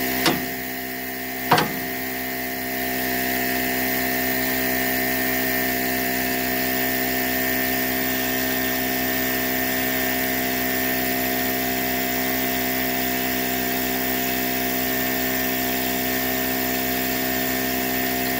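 Steady mechanical drone of a running machine, holding one constant pitch, with two short sharp clicks in the first two seconds.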